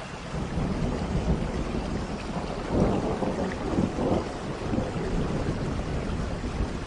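Tropical rain falling steadily, with a deep low rumble under it that swells about three seconds in and again a second later.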